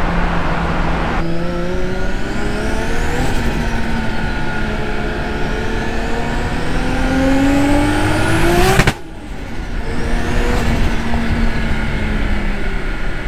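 Turbocharged Nissan RB25DET Neo straight-six pulling hard under load, its note rising steadily for several seconds. Just before nine seconds in the sound cuts off sharply as the throttle lifts, then the engine picks up again at a steadier pitch.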